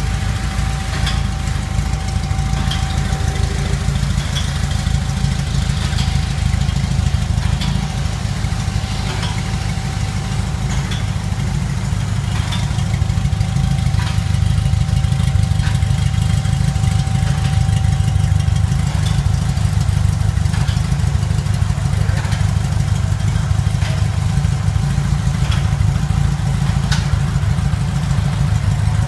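Porsche 356's Polopolus 2.4-litre air-cooled flat-four engine idling steadily, with a faint steady whine above the low rumble.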